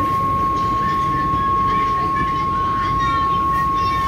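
MTR SP1900 electric multiple-unit train running, heard from inside the car: a steady low rumble with a constant high-pitched whine over it and a few faint squeaks near the end.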